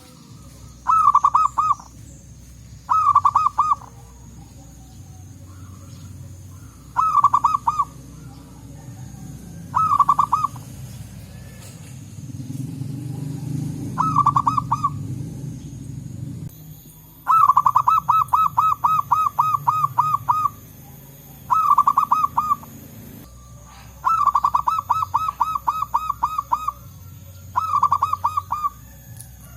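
Zebra doves (perkutut) cooing: about nine phrases of quick, evenly pulsed coo notes, most about a second long and two of them drawn out to about three seconds. Under the calls runs a faint low rumble.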